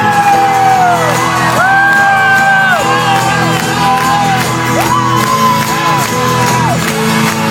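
Rock band and high school marching band playing live, with long held notes that scoop up in pitch at their starts, and shouts and whoops from the audience.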